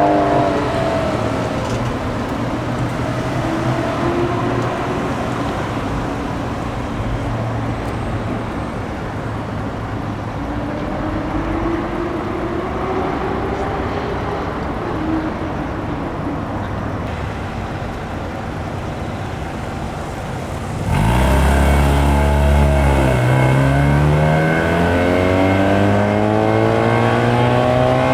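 Car engines running at idle, with slow rises in engine note as cars move about. About 21 seconds in, a much louder car engine comes in and its note climbs steadily for several seconds.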